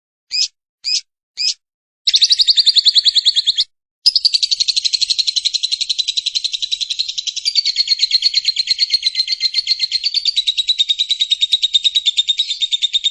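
Lovebird 'ngekek': three short calls, then a long, fast chattering trill of evenly repeated high notes that pauses once briefly and runs on for about nine seconds at a steady pitch.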